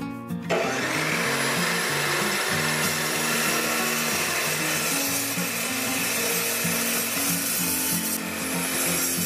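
DeWalt metal-cutting chop saw with a toothed blade starting about half a second in and running steadily as it cuts through 3/4-inch 16-gauge square steel tubing.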